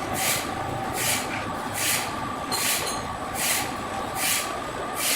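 Sawmill machinery running with a steady hum and a regular hissing stroke about every 0.8 seconds.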